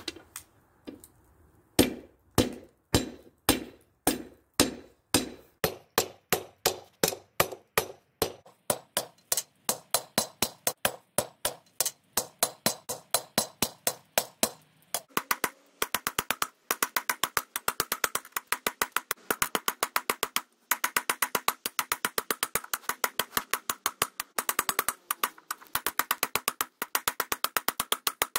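Hammer blows on steel at an anvil, each strike ringing briefly. The blows start at about two or three a second and quicken to a fast, even run in the second half.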